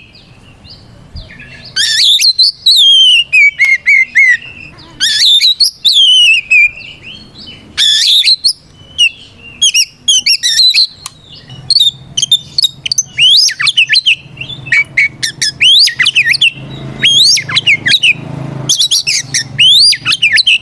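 Oriental magpie-robin singing a loud, varied challenge song: long whistled phrases that slide downward, then a fast run of short, sharp chirps and squeaky notes, with brief pauses between phrases. It is the full-voiced fighting song a male uses to call out rivals.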